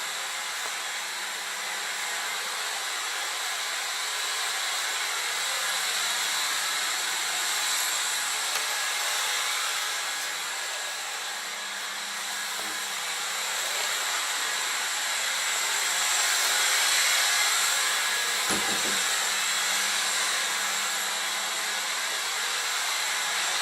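LG CordZero A9 cordless stick vacuum running: a steady high-pitched motor whine over rushing suction air, its level rising and falling gently as it is moved about.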